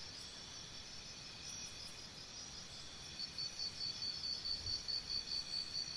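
Faint high-pitched insect chirping, a rapid even pulse that grows stronger about halfway in.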